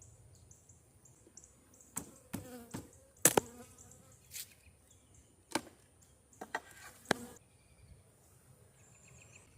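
Honeybees buzzing in short passes close to the microphone, each a brief swell in buzzing pitch, about half a dozen over a few seconds, the loudest a little past three seconds in.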